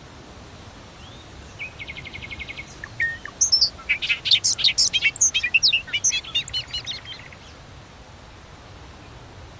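A songbird sings one song lasting about five and a half seconds: it opens with a quick trill of evenly repeated notes, then breaks into a fast jumble of varied, higher notes.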